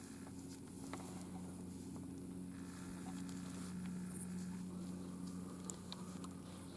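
Light rain pattering, with scattered drops ticking, over a steady low hum.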